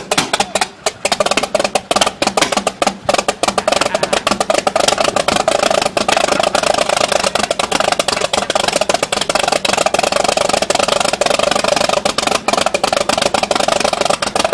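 Continental O-470 six-cylinder aircraft engine on a Cessna 310 catching and running on its first start after overhaul. It runs loud, with a dense, uneven crackle of sharp pops.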